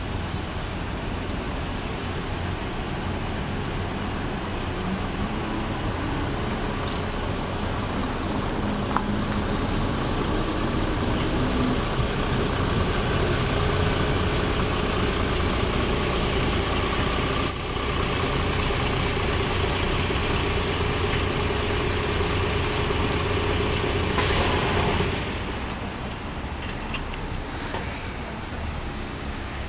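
Hybrid bus running at a stop with a steady hum and a steady whine. About 24 seconds in, a loud hiss of air sounds from the air brakes, and the whine falls away after it.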